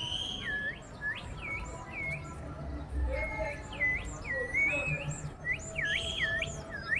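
Birds chirping: a quick series of high whistled notes, each swooping down and back up, two or three a second.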